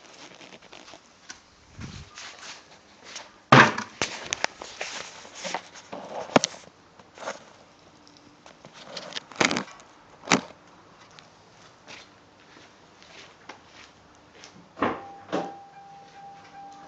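Someone moving around and getting into a car before starting it: footsteps, handling noises and several knocks and thumps, the loudest about three and a half seconds in and again near ten seconds. Near the end a steady high tone comes in.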